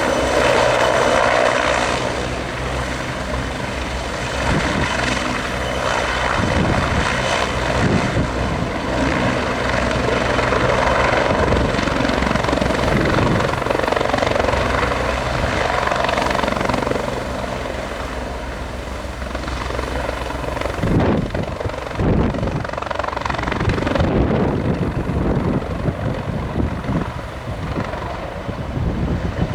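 Helicopter running close by: steady engine whine and rotor noise, with irregular low gusts of strong wind buffeting the microphone.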